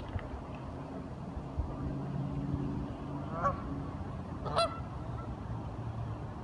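Ducks calling: two short calls about a second apart, the second louder, over a low steady rumble.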